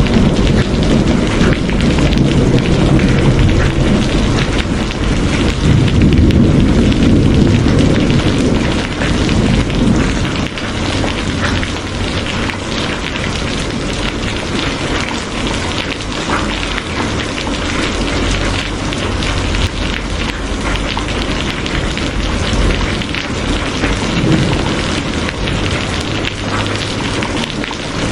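Steady rain falling, with a low rumble under it that dies away about ten seconds in.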